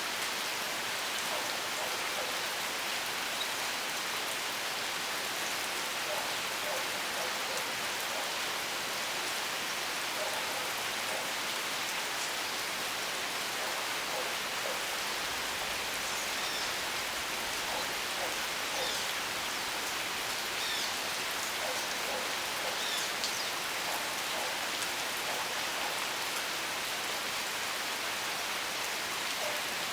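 Steady rain falling, an even hiss of drops on surfaces. A few faint high chirps come through in the middle.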